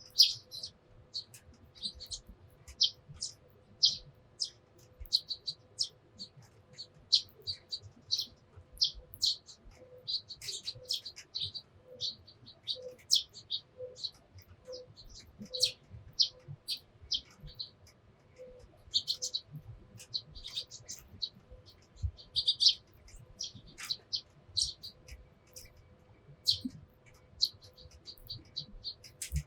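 Sparrows chirping, many short, quick chirps in an irregular, busy stream from several birds.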